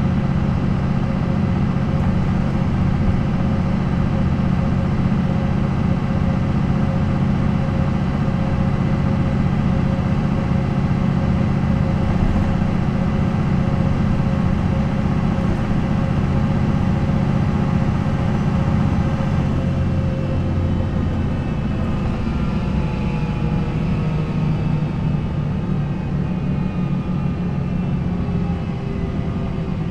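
MAN NL 263 city bus's D28 diesel engine, with its ZF Ecomat automatic gearbox, running steadily under way. About two-thirds of the way through the note changes, and the engine and a higher whine fall slowly in pitch as the bus slows.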